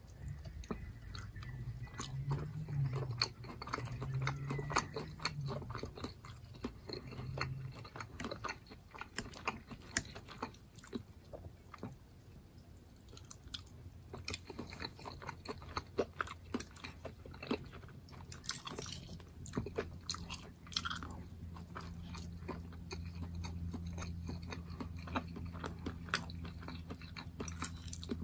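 Close-miked chewing of leftover ground turkey with potatoes, chicken with squash and Mexican rice: a steady run of wet mouth clicks and soft crunches, quieter for a few seconds around the middle.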